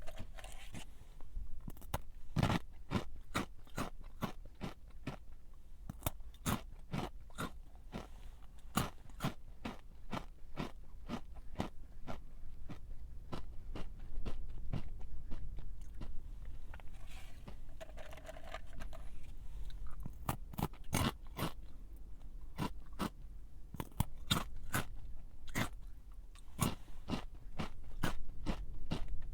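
A person chewing a crunchy snack close to the microphone: a long run of crisp crunches, a few a second, unevenly spaced.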